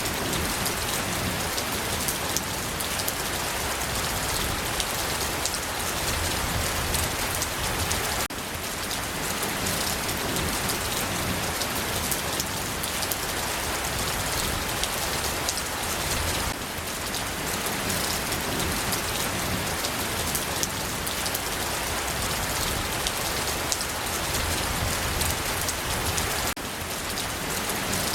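Steady rain falling, an even hiss full of fine drop patter, with the level dipping briefly three times.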